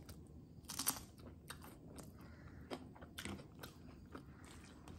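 A person biting into a small round akabare chilli with a crunch about a second in, then chewing, with a few more soft crunches and mouth clicks.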